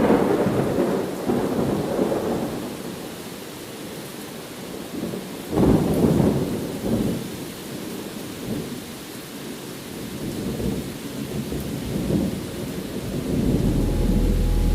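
Steady rain with rolling thunder. A loud thunderclap breaks about five and a half seconds in and rumbles away over several seconds, and the thunder swells again near the end.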